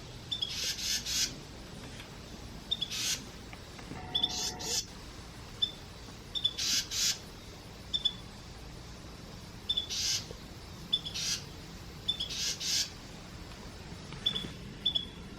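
House wrens calling: short high chirps every second or so, with clusters of brief harsh, hissy bursts several times through the stretch.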